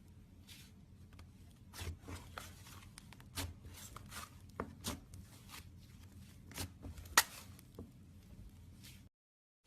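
Slime being worked by hand, giving irregular sharp pops and clicks with softer squishing between them, the loudest pop a little after the middle. The sound cuts off suddenly near the end.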